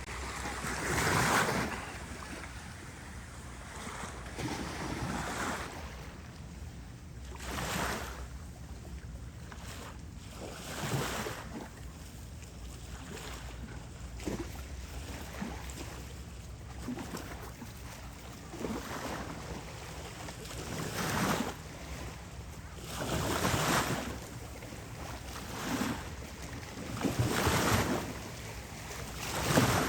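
Small bay waves washing onto the beach at irregular intervals of a few seconds, each a swelling rush of water, over a steady low rumble.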